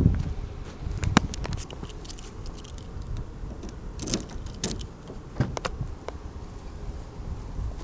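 A few scattered sharp clicks and light knocks: a very sharp one about a second in, then a cluster of them between about four and six seconds.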